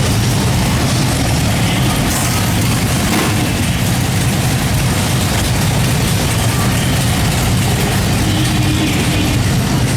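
Harley-Davidson motorcycle engine running steadily at idle, a low, even rumble.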